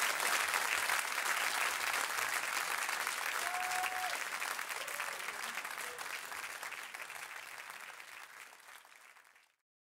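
Concert audience applauding, the clapping fading away over the last few seconds and cut off abruptly near the end, with a few faint whistles or shouts above it.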